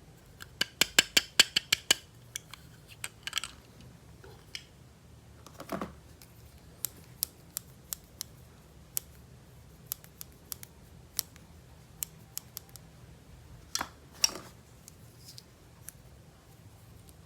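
Toys and packaging being handled at close range: a quick run of about a dozen sharp clicks in the first two seconds, then scattered single clicks and two short rustles.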